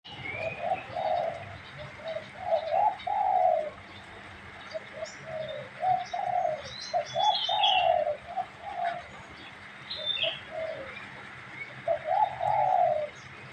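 Male spotted dove cooing, several repeated phrases of low, rolling coos with short pauses between them. A few thin, high chirps from a small bird are heard in the middle.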